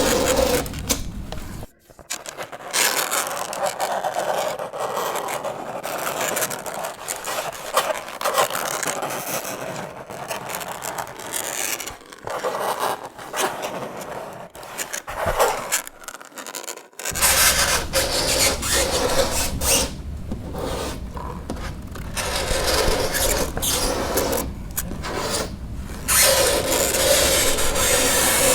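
Fingernails scraping across a chalkboard in a run of repeated harsh scraping strokes, with short breaks about two seconds in and again around fifteen to seventeen seconds in.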